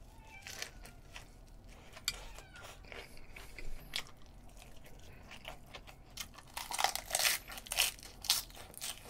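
Close-miked chewing and crunching of food, mostly the crunch of raw vegetables, with small wet mouth clicks. The crunching grows louder and comes thicker about six and a half seconds in.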